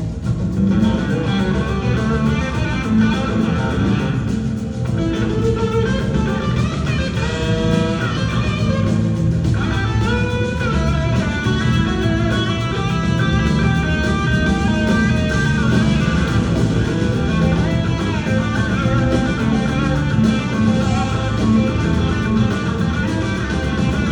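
A live rock band playing an instrumental jam, with an electric guitar taking the lead in long held and gliding notes over bass guitar.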